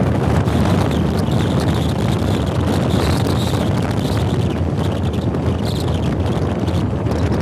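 Passenger train running at speed, heard from aboard: a steady rumble of wheels on track with heavy wind buffeting the microphone.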